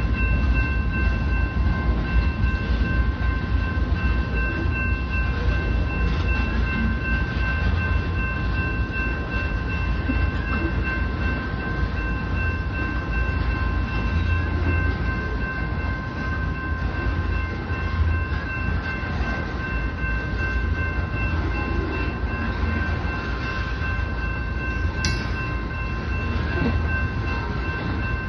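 Union Pacific oil train of tank cars rolling past, a steady low rumble of wheels on rail with a thin, steady high tone over it. One brief click near the end.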